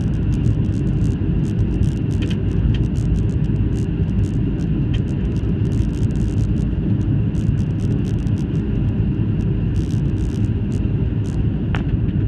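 Steady low rumble of a Boeing 737 airliner heard inside the cabin during landing, with a faint steady whine above it and many small faint ticks and rattles.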